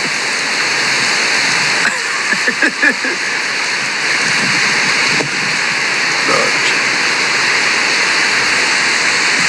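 Heavy hurricane rain and rushing water: a loud, steady, even rush. Faint voices come through briefly about two seconds in.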